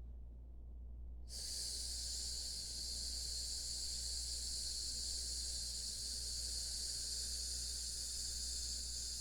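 A person breathing out one long, steady 'sssss' hiss through the teeth. It is the lung sound of the Taoist Six Healing Sounds, used to release grief and sadness. It starts about a second in and is held for about eight seconds.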